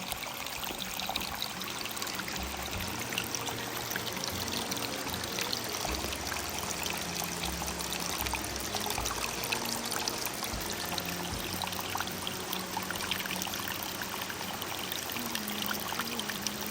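Running water, a small stream trickling and splashing steadily.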